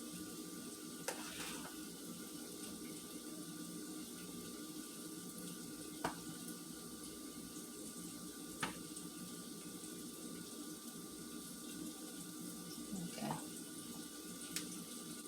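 Kitchen faucet running steadily into the sink, with a few light clicks along the way.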